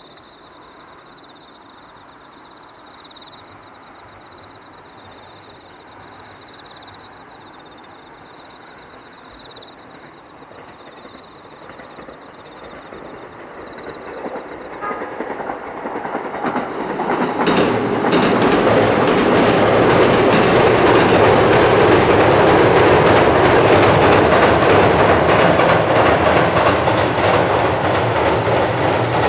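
Four-car JR East E217 series electric train approaching and running past. It is faint at first, grows louder from about twelve seconds in and is loud through the last ten seconds, with wheels clacking over the rail joints.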